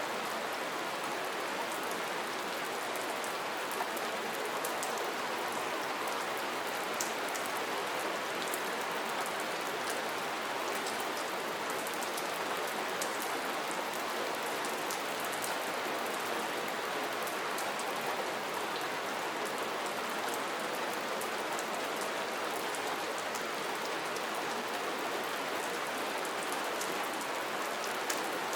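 Steady rain with fine, scattered drop ticks, even in level throughout.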